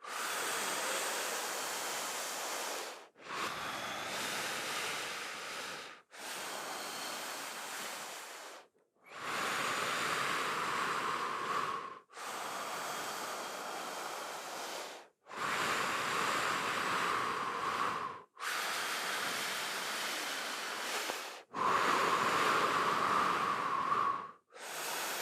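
A person breathing deeply and rhythmically in a breathwork exercise, alternating full inhales and exhales with a brief stop between each. There are about nine breaths of roughly three seconds each.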